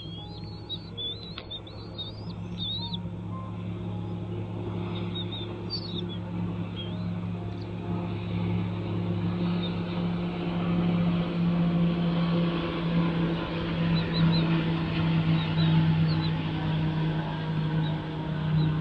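A steady motor drone that grows gradually louder, with short high bird chirps, most of them in the first few seconds.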